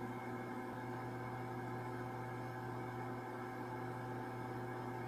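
Microwave oven running on high: a steady low hum with no crackling.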